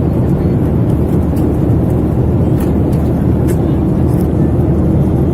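Loud, steady cabin noise of a Boeing 737-800 in motion: a deep rumble from its CFM56 jet engines and the airframe, with faint light rattles now and then.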